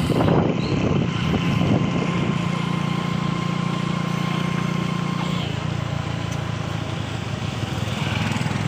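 A motor vehicle's engine running steadily, its hum shifting about five and a half seconds in, with a few brief louder sounds in the first couple of seconds.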